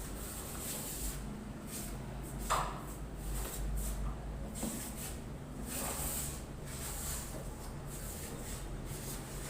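Wall putty being spread and scraped over a wall with a hand tool: intermittent rasping strokes, one sharper stroke about two and a half seconds in, over a steady low hum.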